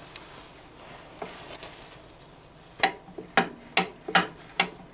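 Hand tool knocking and scraping against the tractor's metal clutch parts while old grime is cleaned off: faint rubbing at first, then about six sharp knocks, two or three a second, in the last two seconds.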